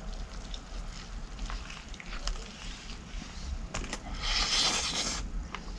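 Chewing and biting into a crispy fried chicken sandwich: scattered small crunches and mouth clicks, with a louder crunching bite lasting about a second, a little after four seconds in.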